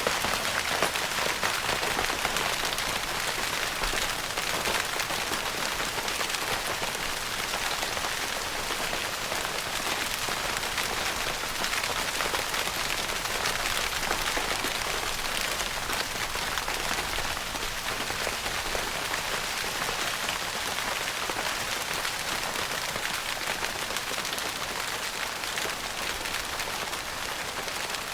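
Steady rain pattering on a tent's fabric roof, a dense even hiss of many small drops heard from inside the tent.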